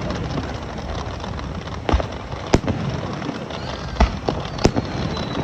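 Fireworks bursting: four sharp bangs, two around two seconds in and two around four seconds in, over a steady crackling background hiss.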